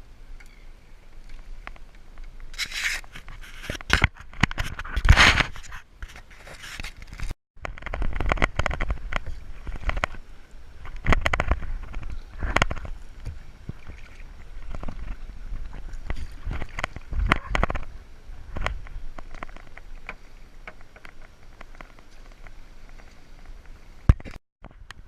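Sea kayak on the water: irregular bursts of splashing and scraping against the hull, louder in places and uneven. The sound cuts out completely for a moment twice.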